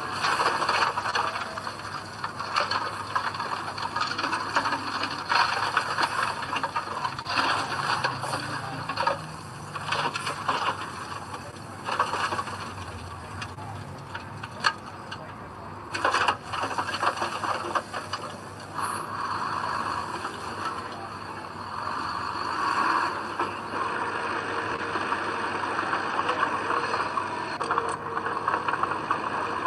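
Small crawler bulldozer at work: a steady clatter of tracks and a scraping blade pushing soil, with sharp metal clanks here and there.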